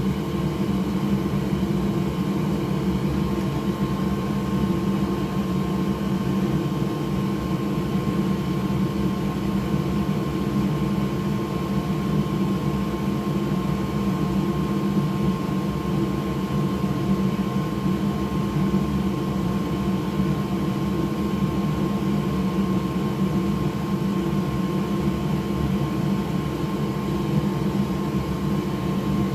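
Small electric blower fan running steadily, a constant whir with a faint steady hum tone.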